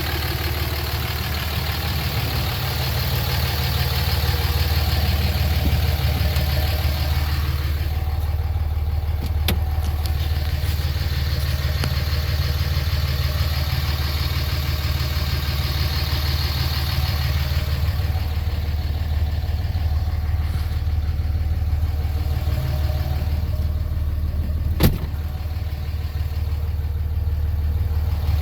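5.9-litre Cummins inline-six turbo diesel of a 2005 Dodge Ram 2500 idling steadily, with one sharp click near the end.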